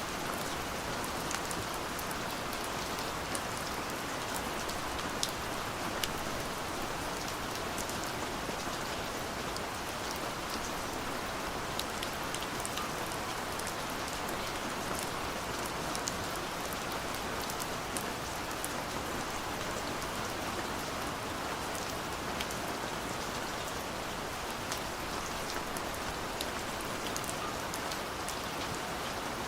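Steady rain falling, an even hiss with many small drops pattering on surfaces, and no thunder.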